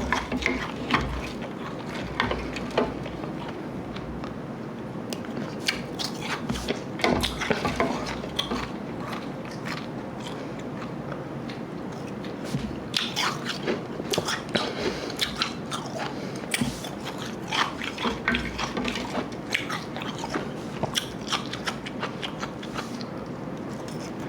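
Close-miked chewing and crunching of ice, slush ice mixed with Igloo ice, with many sharp crunches coming in irregular clusters.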